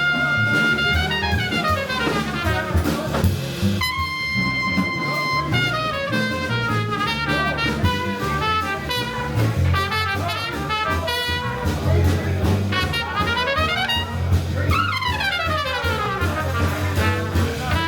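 Live jazz band playing, with a trumpet carrying the melody in held notes and quick runs over bass and drums.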